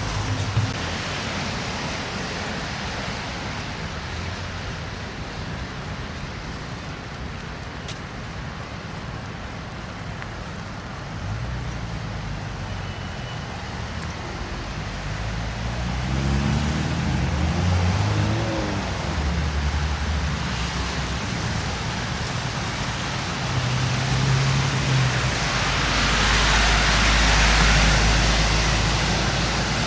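Steady city road traffic: car engines and tyre noise, with vehicles passing. One vehicle's engine note rises and falls about halfway through, and a louder vehicle passes close near the end.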